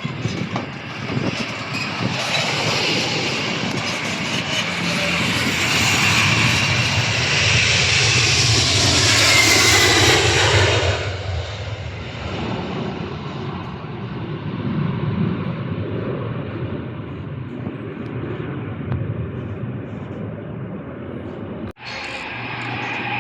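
Aircraft engines passing close by, growing louder to a peak about ten seconds in, then fading as the higher sound drops away. The sound cuts off abruptly near the end.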